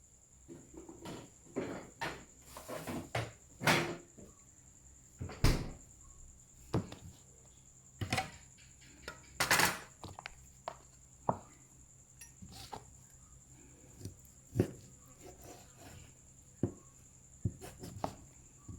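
Kitchen clatter: irregular knocks and clinks of dishes, utensils and cupboard doors being handled, a few of them sharper and louder than the rest.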